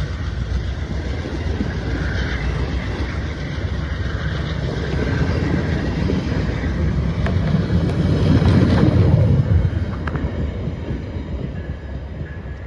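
Passenger train cars rolling past on the rails: a steady rumble and clatter of wheels on track that swells about eight seconds in, then fades as the last car pulls away.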